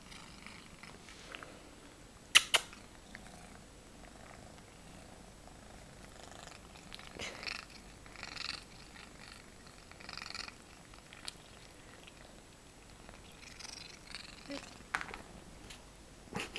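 A domestic cat making odd noises while she eats, in short bursts every second or two, with two sharp clicks a little over two seconds in.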